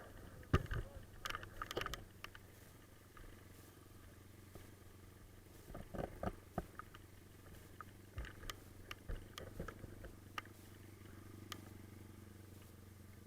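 Pit bike engine idling quietly and steadily, with scattered clicks and knocks over it.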